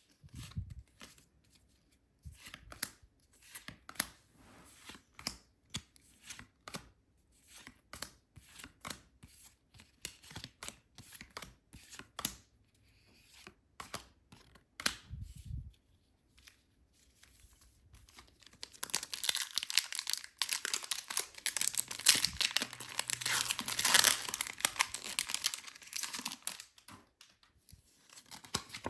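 Packaging of a Pokémon trading-card set being handled and opened: scattered clicks and short rustles, then, about two-thirds of the way in, a long stretch of loud tearing and crinkling as wrapping is ripped open.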